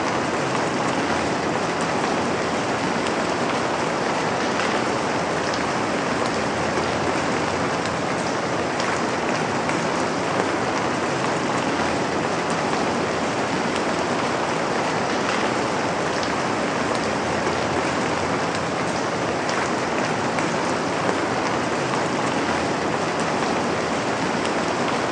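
Steady, dense rain falling on a surface, an even hiss with scattered drop ticks and no change in intensity.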